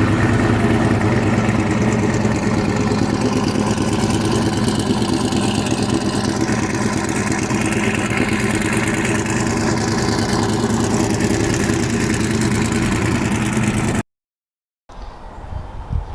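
Pickup truck's V8 engine idling steadily. It cuts off abruptly about fourteen seconds in, followed by a second of silence and then fainter, uneven sounds.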